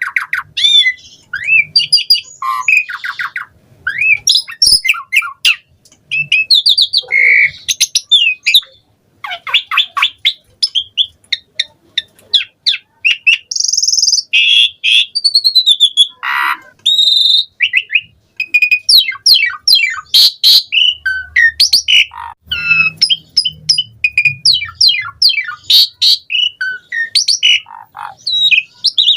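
Javan pied starling (jalak suren) singing a long, varied song that runs without a break: gliding whistles, rapid chattering trills and harsh squawks follow one another with short pauses.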